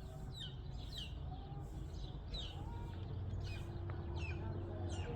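Small birds chirping over and over, short falling chirps about two a second, over a low steady rumble.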